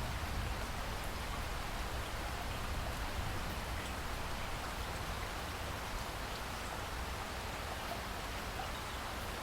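Steady rain falling on rainforest foliage, a constant hiss of drops with a deep low rumble beneath and a few faint drip ticks.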